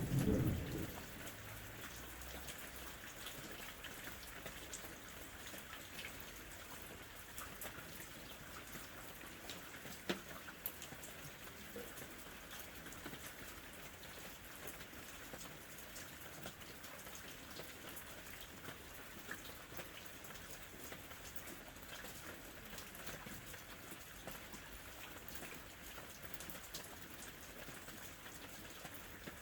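Steady rain falling, with many small sharp ticks scattered over it and one louder click about ten seconds in. A brief low rumble sounds in the first second.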